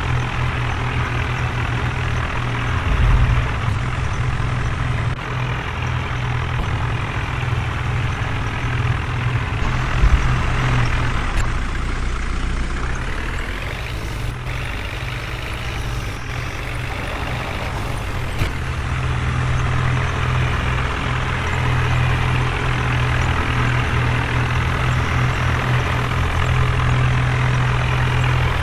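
Heavy diesel machinery engines running hard under load, straining to pull a machine out of mud. The engine speed rises and then falls about halfway through.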